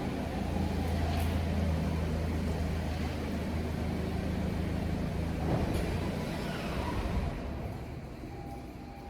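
A car engine running with a steady low hum, fading about seven seconds in.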